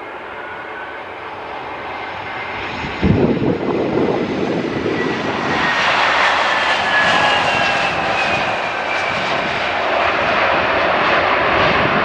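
Airliner engines passing close by, growing louder, with a sudden low rumble about three seconds in and then a high whine that slowly falls in pitch as the aircraft goes past.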